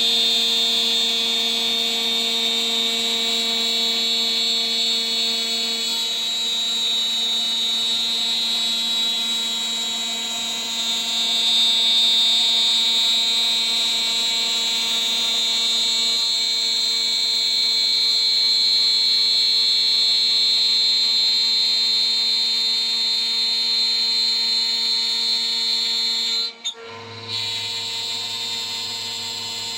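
DIY CNC router spindle running at about 14,000 rpm while a 3 mm three-flute end mill cuts, a steady high whine with cutting noise. Near the end it cuts out for an instant, then comes back with a low hum added.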